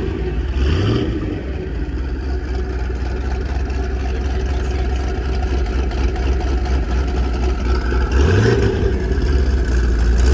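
Motor vehicle engine running steadily at low revs, rising briefly in pitch twice, about half a second in and again about eight seconds in.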